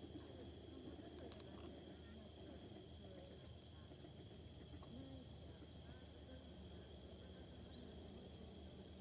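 Faint, steady high insect trilling of crickets or katydids, with the low murmur of a distant crowd talking beneath it.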